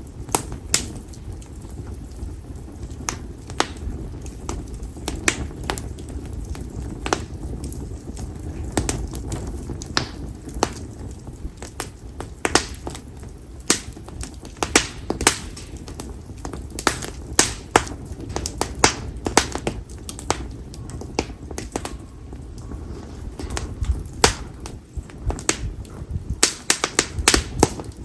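Campfire of split konara oak (Quercus serrata) firewood burning, with frequent, irregular sharp crackles and pops over a low, steady rush.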